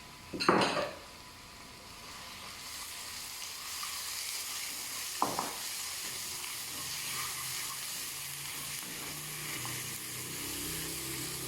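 Ginger-garlic paste frying with browned onions in hot oil, a sizzle that builds over the first few seconds and then holds steady. There is a sharp knock about half a second in and a short clink about five seconds in.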